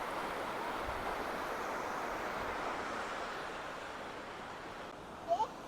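Mountain creek water rushing over rocks, a steady hiss that eases slightly in the second half. Near the end a short, high rising squeak cuts in briefly.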